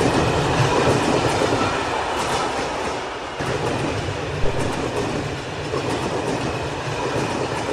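A train running along the rails: a steady rushing rumble with faint wheel clicks about once a second.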